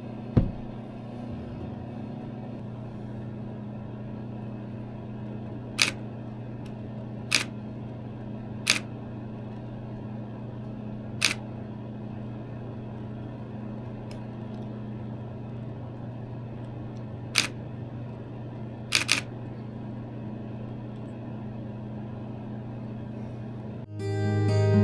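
Shutter of a Nikon D7000 DSLR firing single frames: about seven sharp clicks at irregular intervals, one of them a quick double, over a steady low hum.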